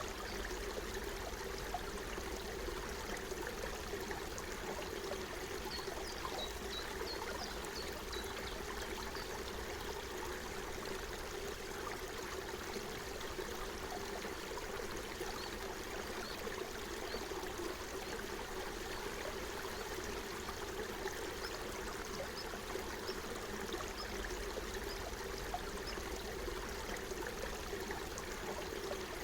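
Forest stream running steadily, a continuous babble of flowing water.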